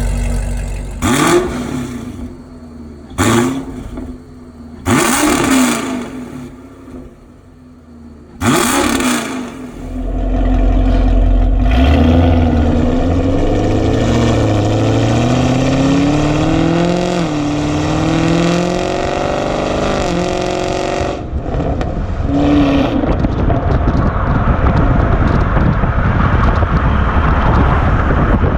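6th-gen Camaro SS's 6.2 L V8 breathing through 2-inch headers with an X-pipe into the factory NPP exhaust: four sharp blips of the throttle from idle, then a long pull with the engine pitch climbing in steps for about ten seconds. This is followed by a steady rush of noise.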